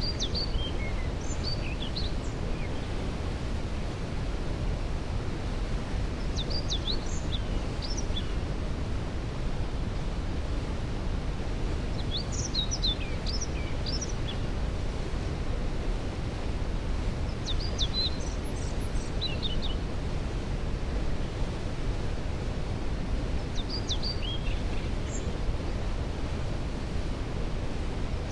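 Steady rush of a waterfall, with a songbird singing a short phrase of quick high notes about every six seconds.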